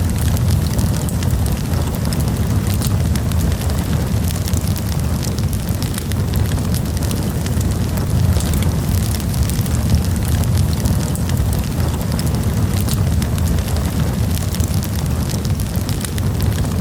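Campfire burning, with a low steady rumble of the flames and frequent irregular crackles and pops.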